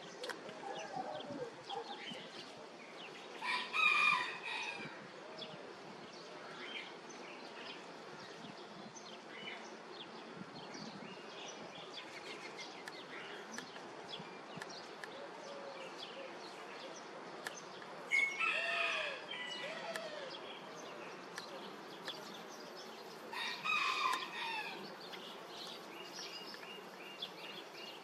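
A bird calling loudly three times, each call about a second long, the first near the start and the other two several seconds apart later on, with faint smaller chirps in between.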